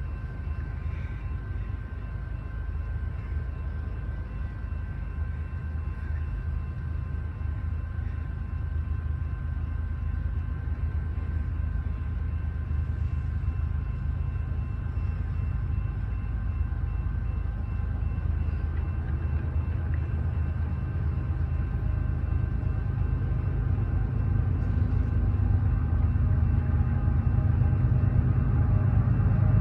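Low rumble of an approaching intermodal train led by five diesel-electric locomotives, growing steadily louder, with a steady high ringing tone running above it.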